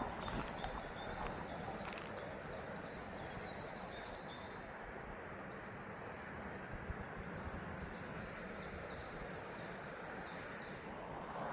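Steady outdoor background noise with a small bird singing a run of quick, high chirps through the middle.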